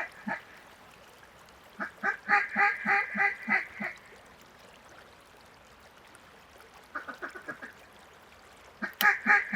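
Duck call blown in runs of quacks to bring in approaching ducks: a loud run of about eight quacks about two seconds in, a short, fainter run near seven seconds, and another loud run near the end, just after a sharp click.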